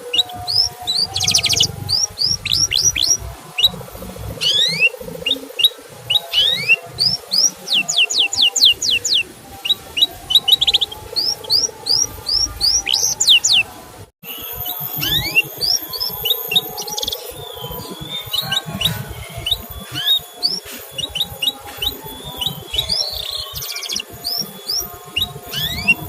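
Canary song: rapid series of short rising chirps and quick trills, the 'cuit cuit' type of call used as tutor song. It breaks off abruptly for an instant about halfway through, then carries on.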